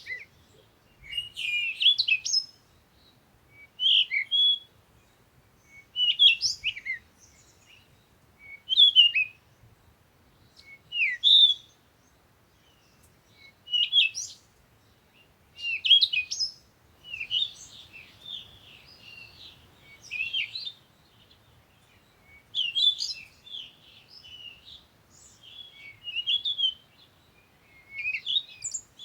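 Songbirds singing: short chirping phrases repeated about every two seconds, giving way to busier, overlapping twittering in the second half.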